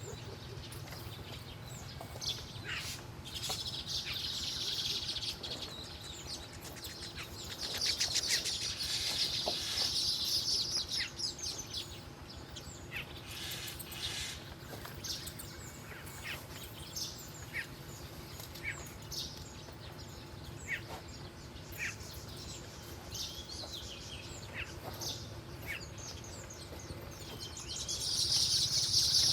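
Wild birds chirping, with scattered short calls and a few longer high twittering bouts, about three seconds in, around eight to eleven seconds in, and again near the end.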